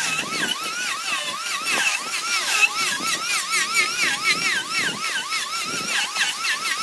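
High-speed power tool whining as it cuts wood, its pitch dipping and recovering about three times a second as it is pressed into the work and eased off.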